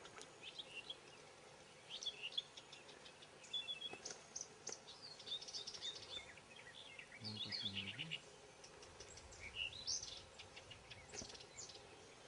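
Small birds chirping and singing, many short calls and trills one after another, faint over a quiet background.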